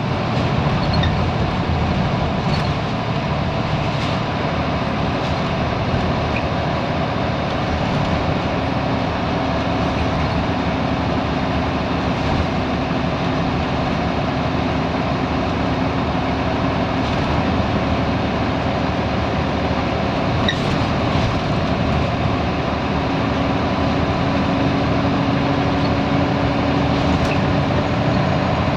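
Scania L94UB Wright Solar single-deck bus under way: a steady engine drone over road noise, with a few light rattles.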